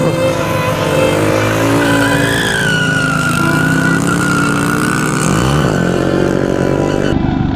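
A loud vehicle engine running hard, with a dense rush of noise; its pitch dips and climbs again about five and a half seconds in.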